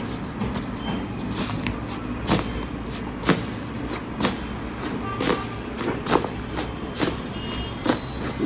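Slime being worked by hand, giving sharp clicking and popping sounds about twice a second over a steady low hum.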